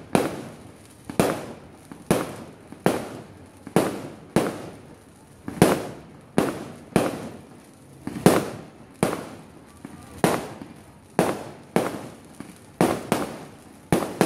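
Fireworks launched into the air going off in a long, uneven series of sharp bangs, roughly one every half-second to second, each followed by a short echoing tail.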